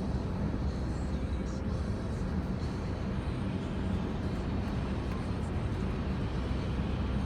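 Mercedes-Benz C300 (W205) driving at a steady pace: an even, continuous rumble of engine and road noise with no change in revs.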